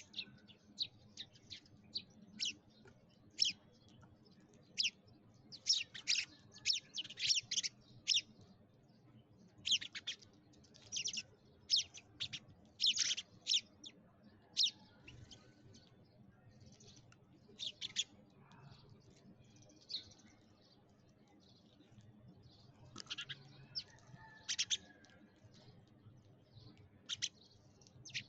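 Sparrows chirping: short, sharp, high chirps, often in quick runs of several, with a lull of a few seconds about two-thirds of the way through.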